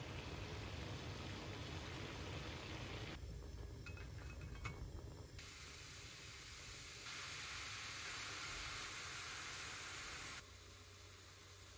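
Water at a rolling boil in a pot, blanching garlic chives. After a cut, a few light chopstick taps, then enoki mushrooms sizzling in a hot rectangular frying pan. The sizzle grows louder about seven seconds in and cuts off suddenly a little after ten seconds.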